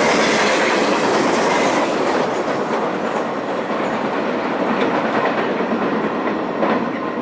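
Railcars of a passing train rolling by, their wheels clicking over the rail joints in a steady rumble that slowly eases off.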